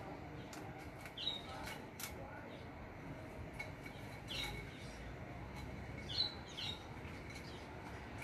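A small bird chirping in short, falling notes, four or five times, over a few sharp clicks from hands working in an orchid pot.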